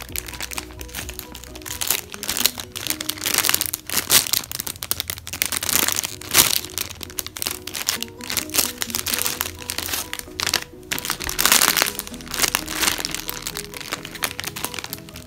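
Plastic wrapping crinkling and crackling in irregular bursts under handling, over steady background music.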